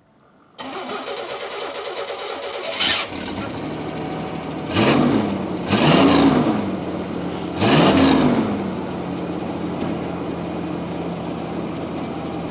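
1987 Chevy S10 Blazer's original 2.8-litre V6 cold-starting at about 25°F: the starter cranks for a couple of seconds before the engine catches. The engine is revved briefly three times, then settles into a steady idle.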